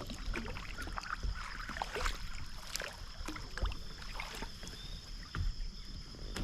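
Scattered splashes, knocks and handling noises in and around a fishing kayak as a hooked bass is brought in. A steady high-pitched insect drone runs underneath.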